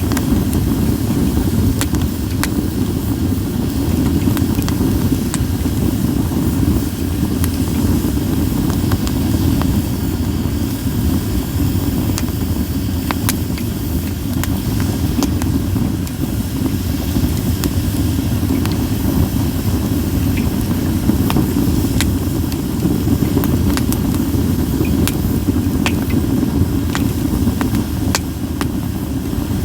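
Campfire of split sawtooth oak (kunugi) logs burning, with a steady low rumble of the flames under sparse, sharp crackles and pops scattered through.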